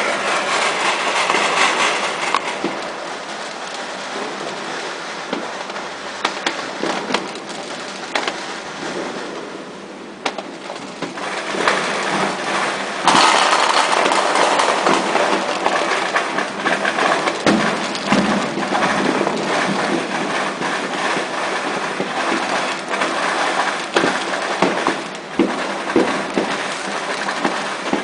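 Strings of firecrackers and fireworks going off without pause, a dense crackling rattle of small bangs with separate louder bangs among it. It eases off briefly about ten seconds in, then surges louder suddenly around thirteen seconds.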